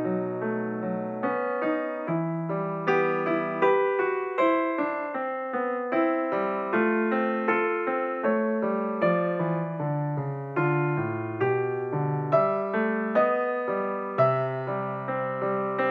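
Background piano music: a continuous run of struck notes and chords, each fading after it is played.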